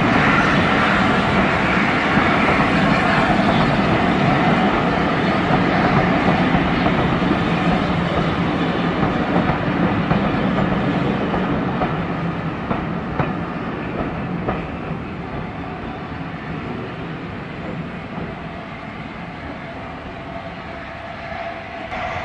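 Passenger coaches rolling past, their wheels running over the rails with an occasional click at the joints. The sound grows fainter over the second half as the train draws away.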